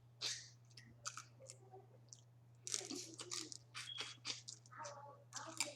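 Boiled crawfish being cracked and peeled and eaten close to the microphone: scattered shell crunches and crackles with chewing, over a steady low hum.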